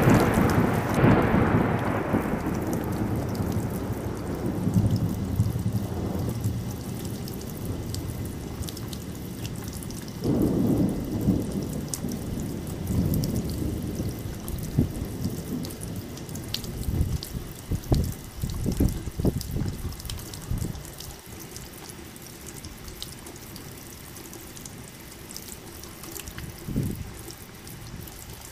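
Thunderstorm in a forest: a loud rolling peal of thunder at the start fades away over several seconds, another rumble comes about ten seconds in, and a few sharp cracks follow later, with one near the end. Steady rain and dripping water go on underneath.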